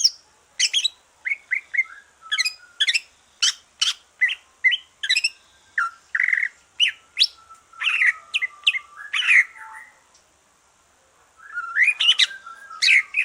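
Green leafbird (cucak ijo) singing a fast, varied run of short chirps, trills and whistles, with a pause of about a second and a half near the end; the bird has just finished its moult.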